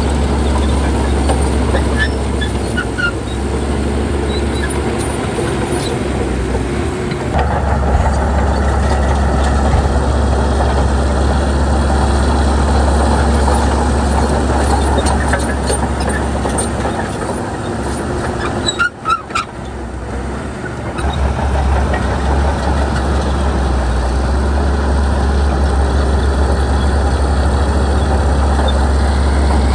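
Crawler bulldozer's diesel engine working under load, growing louder and heavier about a quarter of the way in. It drops off briefly about two-thirds of the way through, then pulls up again. A few short high squeaks sound near the start and at the drop.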